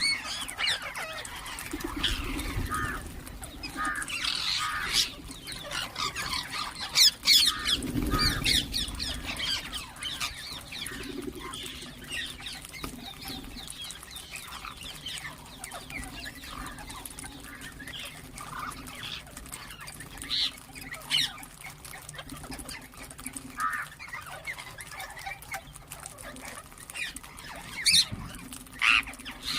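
Ringneck parrots chirping and squawking in a continuous chatter of short calls, with louder sharp squawks about seven seconds in and again near the end.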